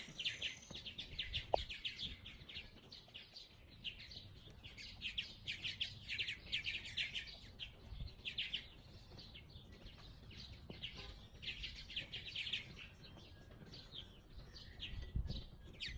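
Small birds chirping in quick runs of high notes, phrase after phrase with short gaps between.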